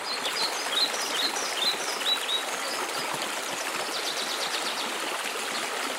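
Steady rush of a waterfall, with small birds chirping over it: a string of quick chirps in the first couple of seconds and a fast trill about four seconds in.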